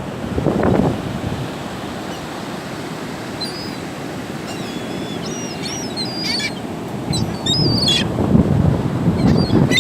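Seagulls calling in short, high, squealing cries over a steady rush of surf and wind. The calls begin about three seconds in and come thicker toward the end.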